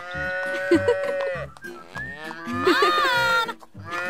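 Cow mooing: a long moo, then a second, higher one that bends in pitch, with a third beginning near the end.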